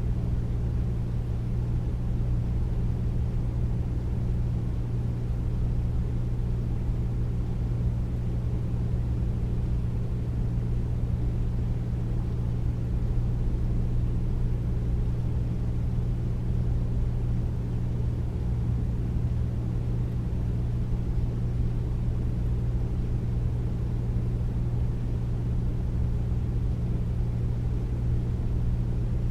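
Air conditioner running steadily, a deep even hum with a low rumble and soft airy hiss above it.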